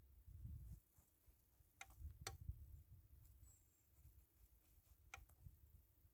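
Near silence with a few faint, sharp clicks, three in all, over a low rumble.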